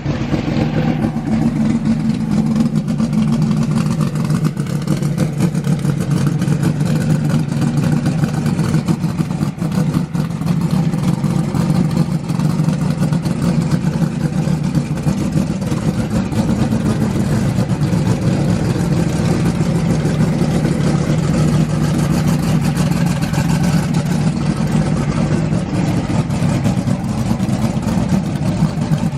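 A TKM-built drag race car engine running loudly and steadily at idle, its exhaust pulsing rapidly.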